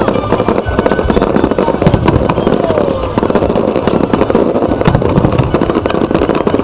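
Dense fireworks barrage: continuous crackling and popping of many shells bursting over a steady rumble, with no pause.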